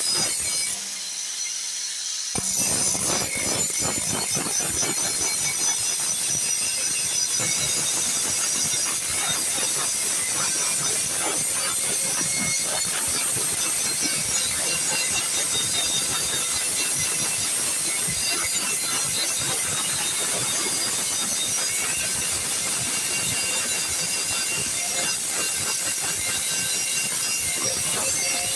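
Steady, harsh mechanical scraping and hissing with dense rapid clicks, briefly dipping about a second in.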